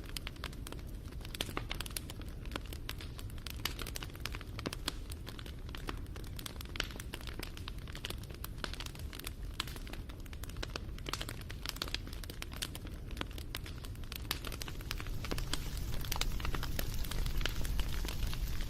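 Wood fire crackling, with dense small pops and snaps over a low rumble, growing a little louder near the end.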